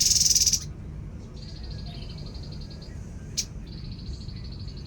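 A tepus babbler calling: a loud, harsh, buzzy burst at the start, then two long, even, high trills. There is one sharp click shortly before the second trill.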